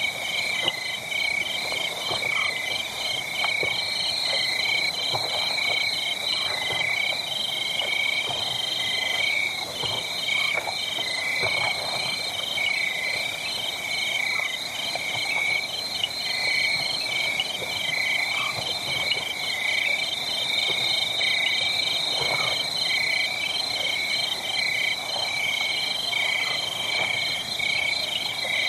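Steady night chorus of calling animals: several layers of rapid, high-pitched chirping pulses running on without a break. Faint scattered crackles sit underneath, fitting a burning wood fire.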